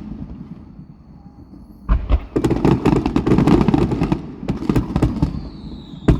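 Fireworks going off. A bang fades away, then from about two seconds in comes a dense run of rapid crackling bangs lasting about three seconds. Near the end a falling whistle sounds together with another sharp bang.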